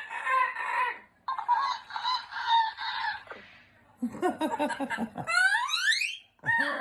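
Yellow-crowned Amazon parrot chattering and squawking in several bursts, with a long rising whistle-like call about five seconds in.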